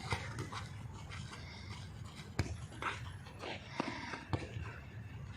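A football being kicked: four sharp thuds, with panting breath and rustling between them.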